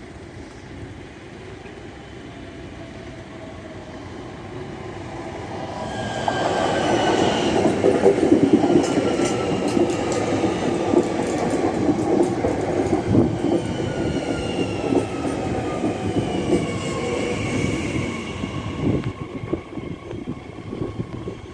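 Transilien line P train arriving: it builds up from about six seconds in and runs loudly past, with a whine that falls slowly in pitch as it slows and wheel clatter on the rails, then dies down near the end.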